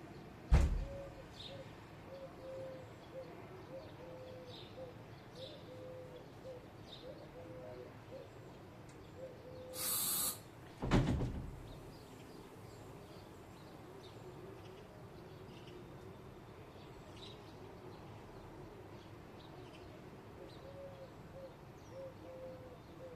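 Birds calling: a long string of short, low, repeated notes, with scattered small high chirps over it. A loud thump comes about half a second in and another about eleven seconds in, the second just after a second-long burst of hiss.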